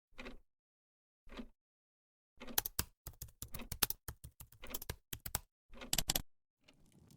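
Computer keyboard typing: two soft single taps, then quick runs of keystrokes. A faint hiss starts to rise near the end.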